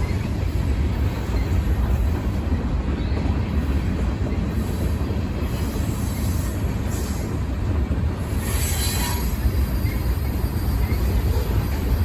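Freight train cars rolling past with a steady low rumble. A brief higher-pitched wheel squeal comes about nine seconds in.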